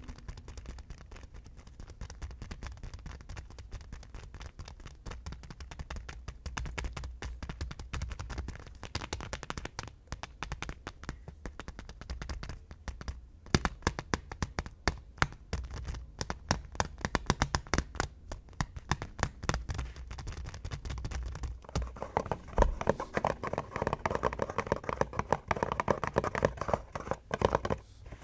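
ASMR tapping: fingers and nails tapping on hard objects with rapid, uneven taps. They come in a dense, louder run about halfway through, and near the end the taps take on a fuller tone.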